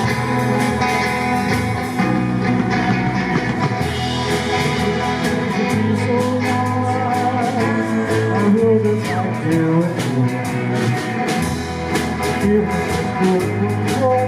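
Live rock band playing a slow song: an electric guitar melody with sliding notes over steady bass and drums, with cymbal ticks keeping time.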